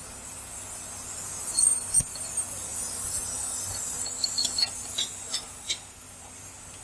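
Light metallic clinks and taps of hand tools and steel differential parts being handled: a couple of sharp ones about a second and a half in, then a quick cluster of about half a dozen near the end, over a steady high hiss.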